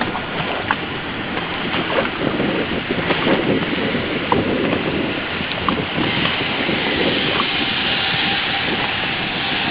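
Waves washing and surf noise with wind buffeting the microphone, a steady rushing hiss that grows hissier in the second half.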